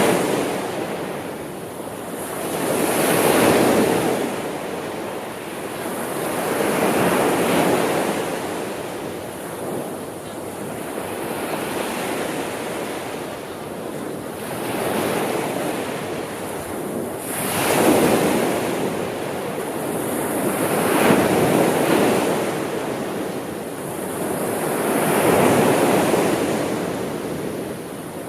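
Sea waves breaking and washing on the shore, each swell rising and falling back every three to four seconds, with some wind.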